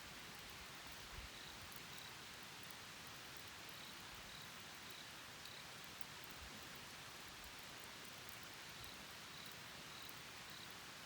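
Quiet outdoor ambience: a steady soft hiss with faint, short, high-pitched chirps coming in small runs a few times.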